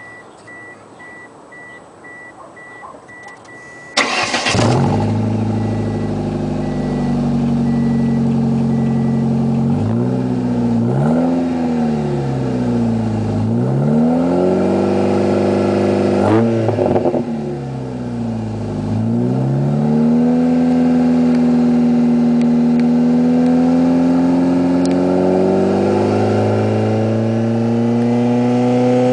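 Car engine with a new aftermarket muffler starting about four seconds in, after a steady electronic beep that carries on faintly for a few seconds more. The exhaust then idles, is revved up and down twice, and is held at a raised steady speed that climbs near the end.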